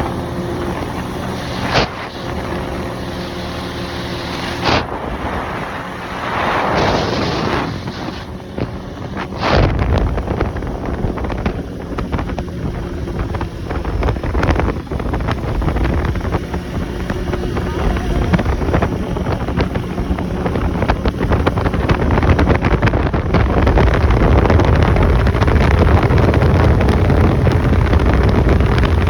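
Four-wheeler (ATV) engine running during a ride, with wind buffeting the microphone. A few sharp knocks in the first ten seconds; after about ten seconds the engine and wind rumble grow louder and build toward the end.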